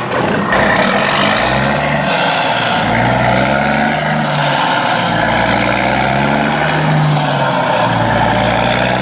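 Heavy truck's diesel engine running hard, its pitch wavering up and down, with a faint high whine rising and falling over it.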